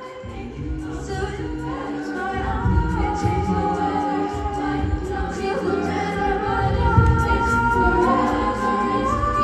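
A cappella vocal group singing in close harmony, with held chords over a low vocal bass line, growing steadily louder through the passage.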